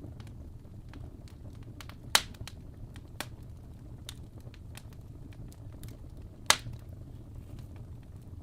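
Wood fire crackling: irregular small pops and snaps over a steady low rumble, with two sharp, louder pops about two seconds in and again near six and a half seconds.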